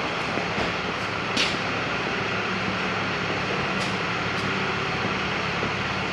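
A truck engine running steadily, with a brief hiss about a second and a half in.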